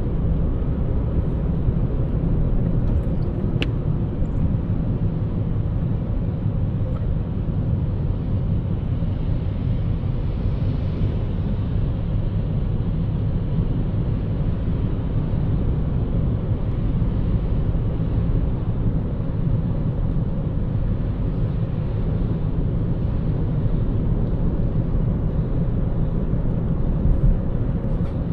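Steady low rumble of a car driving: road and engine noise, with a single faint click about three and a half seconds in.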